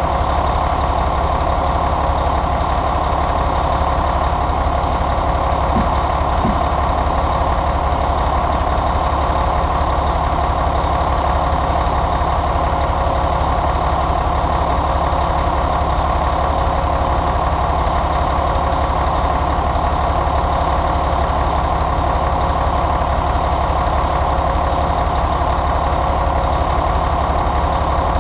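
Caterpillar 3176 inline-six diesel engine idling steadily.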